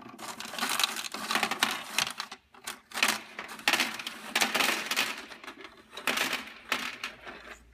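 Small hard loose pieces clattering and rattling against plastic toy vehicles: an irregular run of quick knocks and rattles, thickest in the middle of the stretch.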